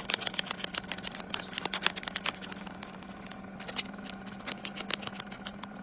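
Rapid, irregular small clicks and taps, several a second, thinning out about halfway through, over a low steady hum.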